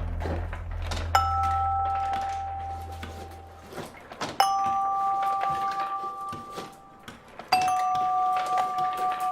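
Three bell-like chime tones, struck about three seconds apart. Each rings out as a two-note tone and slowly fades.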